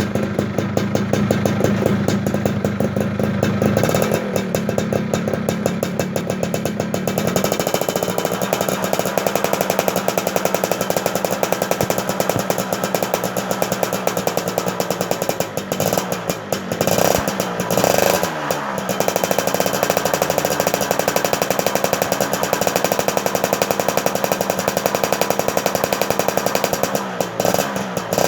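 Engine running with a fast, even pulsing beat, revved up and down a few times a little past halfway through. It is being run after standing unused for a month, and is smoking heavily.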